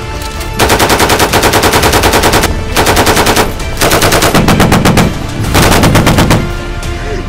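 Machine-gun fire in four rapid bursts, each a quick run of evenly spaced shots, the first and longest lasting about two seconds.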